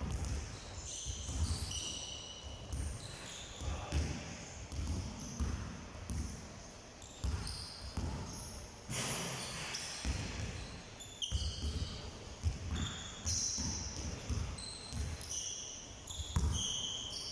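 Basketballs bouncing on a hard court in irregular thuds, mixed with short high squeaks of sneakers on the floor, in a reverberant gym.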